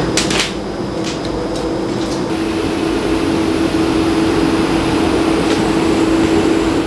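Steady mechanical hum with a constant low tone over a noisy background, with a couple of clicks just after the start.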